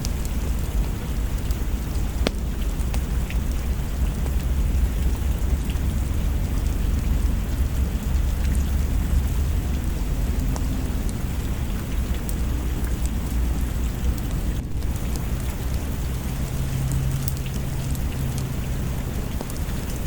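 Steady heavy rain over a continuous deep rumble of thunder, with a few sharp isolated clicks scattered through.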